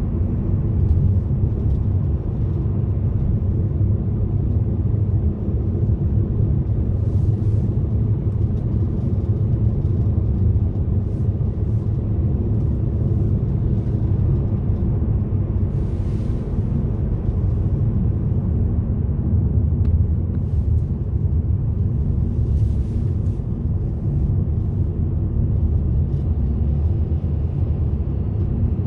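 Car driving along a road: a steady low rumble of engine and tyre noise, with a few brief hisses about seven, sixteen and twenty-three seconds in.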